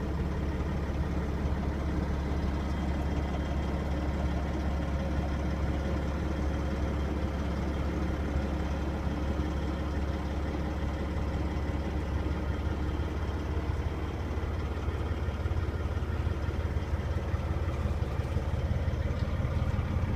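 Caterpillar C15 inline-six diesel in a Peterbilt 379 highway tractor idling steadily, heard from inside the cab as a low, even hum.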